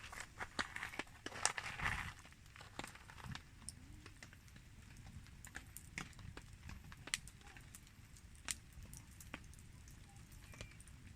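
Wood campfire crackling faintly, with scattered sharp pops at irregular intervals over a low rumble.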